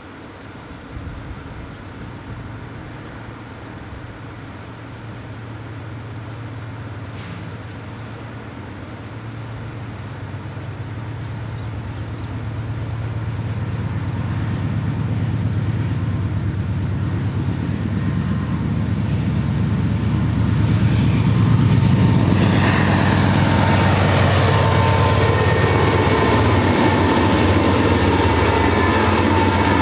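Intermodal freight train hauled by diesel locomotives approaching: the locomotives' engine drone grows steadily louder for about twenty seconds, then holds at its loudest as they pass, with the clatter and squeal of steel wheels on the rails joining in.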